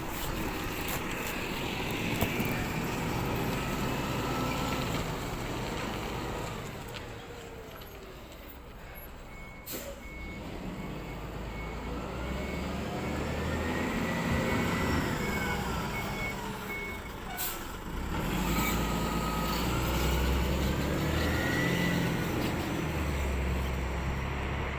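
Rubbish truck engine running, its pitch rising and falling as it revs up and down. A reversing beeper sounds rapidly from about ten seconds in to about seventeen seconds. There are two sudden sharp sounds, one near the start of the beeping and one at its end.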